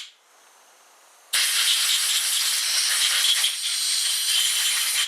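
Compressed-air blowgun hissing as it blows lantern-fuel solvent off a diesel injector's parts to dry them. The hiss stops right at the start, then comes back abruptly about a second and a half in and blows steadily.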